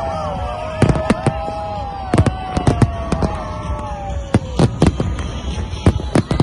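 New Year fireworks display: a rapid, irregular series of sharp bangs from bursting shells, with several long whistling tones sliding slowly in pitch over them.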